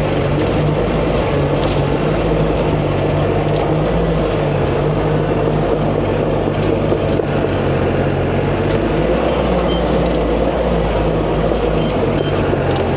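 Caterpillar D5 bulldozer's diesel engine running steadily under load, heard from the cab, with a slight change in engine note about nine seconds in.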